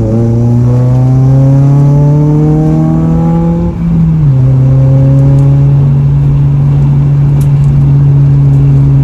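Modified Honda Civic Type R four-cylinder engine pulling hard, revs climbing steadily for about four seconds, dipping briefly at a gear change, then holding steady.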